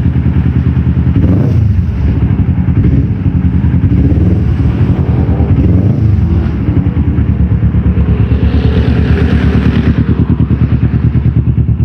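Kawasaki Ninja 250 Fi parallel-twin engine running through a Norifumi X4 aftermarket slip-on exhaust on a custom header: a loud, evenly pulsing exhaust note at idle, swelling briefly a few times with light throttle.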